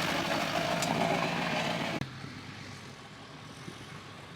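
A vehicle engine running, with broad road-and-crowd-like noise over it. About two seconds in it cuts off abruptly to a quieter steady background.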